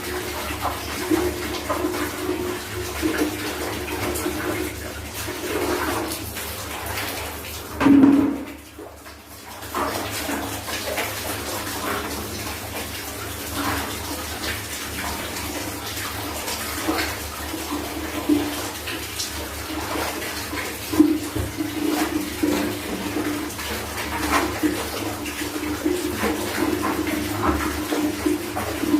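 Water running and splashing as clothes are washed by hand. About eight seconds in there is a brief louder surge, then a short lull before the splashing resumes.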